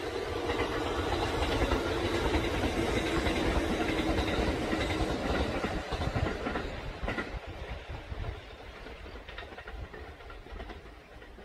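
Kintetsu electric train passing close by: wheels and running gear rumble loudly with a steady tone running through the noise, then fade as the train draws away, with a few rail-joint clacks about seven seconds in.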